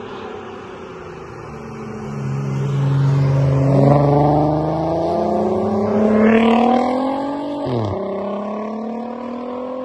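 Volkswagen Golf Mk5 R32's 3.2-litre VR6 engine accelerating hard, the revs climbing with a brief dip about four seconds in. The revs drop sharply just before the end.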